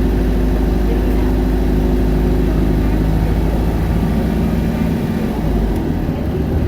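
Isuzu Erga city bus's four-cylinder diesel engine running, heard from inside the passenger cabin as a steady drone. The drone eases a little about five seconds in.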